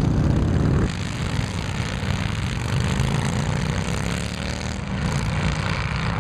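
Motorcycle engines running as a group of riders pulls away and passes, the engine notes sliding up and down in pitch as they rev. The sound drops in level about a second in.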